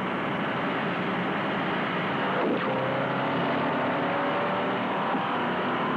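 Two 1963 performance V8 cars, a Chevrolet Impala and a Ford Galaxie 500, under hard acceleration at highway speed, pulling from 50 toward 80 mph. A brief click comes about two and a half seconds in, and from then on the engine note climbs slowly and steadily in pitch.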